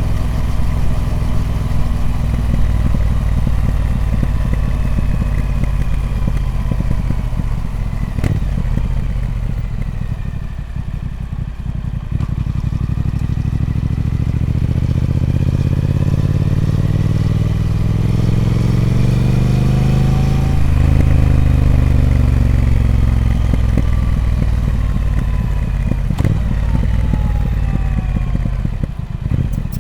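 Triumph Speed Twin 1200's 1200 cc parallel-twin engine running through its stock exhaust. It runs steady at first and eases off about a third of the way in. It then climbs steadily in pitch to a peak about two-thirds through and falls back again.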